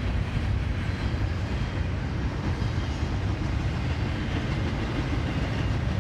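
Norfolk Southern intermodal freight train passing close by: a steady rumble of wheels on the rails and rolling cars.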